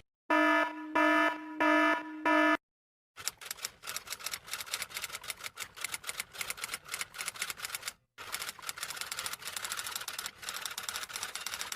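Four short electronic beeps, evenly spaced, each one a steady buzzy tone. After a brief gap come two long runs of rapid, irregular clicking, split by a short break about 8 seconds in.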